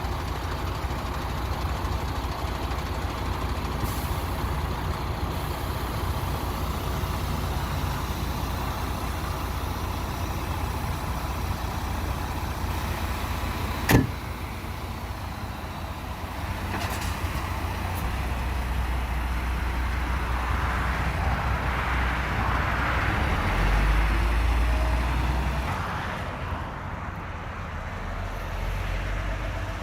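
Semi-truck tractor unit's diesel engine running steadily at idle, with a single sharp bang about halfway through and a swelling rush of noise later on.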